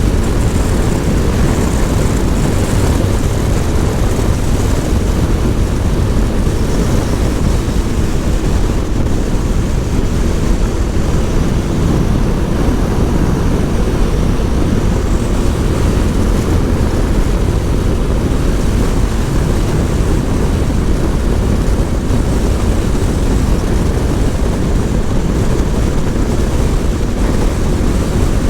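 Honda Transalp motorcycle cruising at highway speed: a steady drone of engine and wind rush with no change in pitch.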